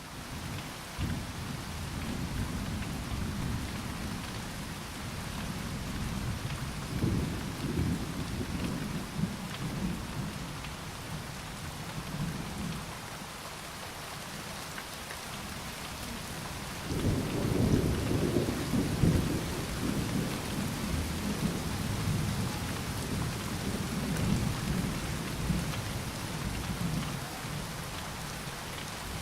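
Steady rainfall with rolling thunder: a low rumble through roughly the first twelve seconds, then a louder peal that starts suddenly about seventeen seconds in and rumbles on to the end.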